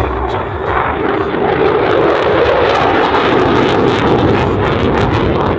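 F-16 Fighting Falcon jet engine roaring loudly as the fighter flies past, swelling about a second in and holding steady before easing slightly near the end.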